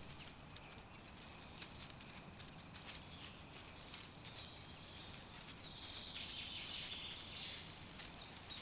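Faint natural ambience: light, scattered ticking and pattering, with high, thin chirps of birds or insects that grow a little stronger after the middle.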